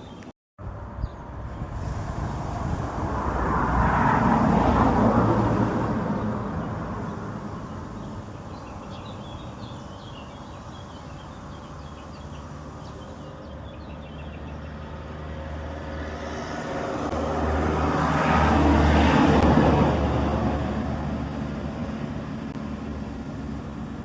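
Two road vehicles passing one after the other, each swelling up and fading away over several seconds, over a steady low traffic rumble. Faint bird chirps come between the two passes.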